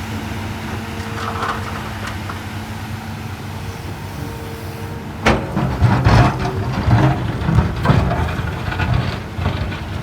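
Hydraulic excavator's diesel engine running steadily. About five seconds in come loud, irregular clunks and rumbles as the bucket works wet fill into a nearly full dump truck.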